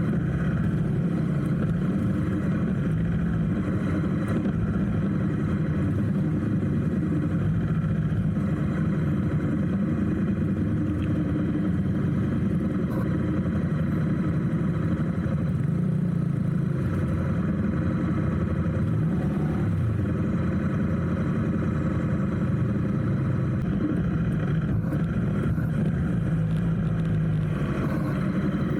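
Motorcycle engine running steadily, heard from on the bike, with the hum of surrounding traffic.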